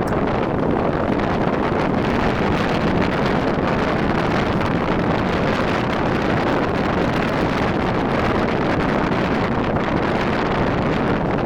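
Steady wind noise on the microphone with a motorcycle engine running underneath, as from a Rusi RFI 175 being ridden at speed.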